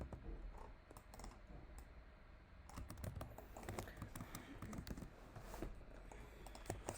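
Faint tapping on a computer keyboard: irregular key presses, busiest in the middle.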